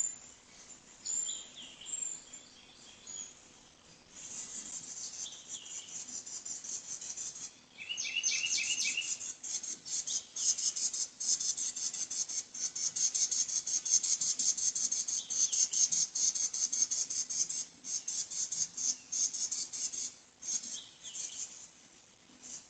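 High-pitched chirping in long trains of rapid, evenly repeated pulses, with some lower, shorter chirps now and then. It starts a few seconds in and gets louder about a third of the way through.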